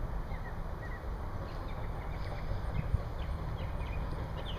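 Small birds chirping in short calls over a steady low rumble, with one brief knock about three seconds in.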